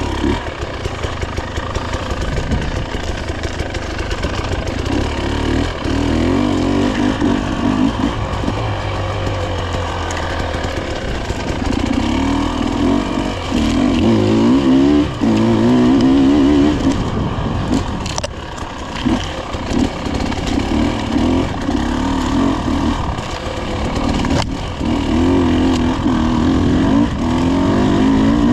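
Dirt bike engine running hard on a trail ride, revving up and down continuously as the rider works the throttle and shifts.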